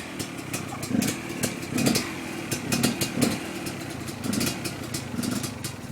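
Dirt bike engine running unevenly, its revs rising and falling in short surges about twice a second, with sharp clicks and clatter over it.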